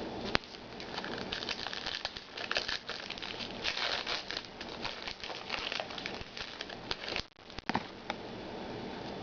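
Trading-card pack wrapper crinkling and cards being shuffled through by hand, a dense rustle with a sharp click about half a second in.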